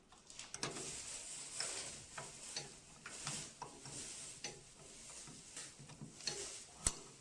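Small plastic parts of a printer's ink pump assembly clicking and rattling as they are handled and fitted into place, a scattered run of light ticks with one sharper click near the end.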